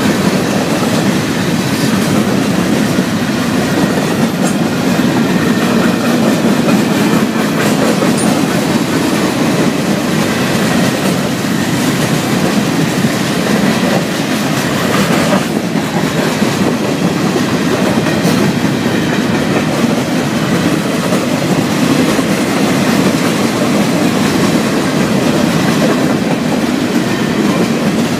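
Florida East Coast Railway freight train's cars rolling past: autoracks, covered hoppers and boxcars, with a steady, continuous noise of steel wheels on the rails.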